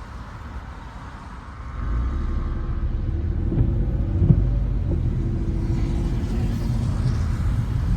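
Car driving through city streets: a low road and engine rumble that comes up about two seconds in and then holds steady, with a few soft knocks.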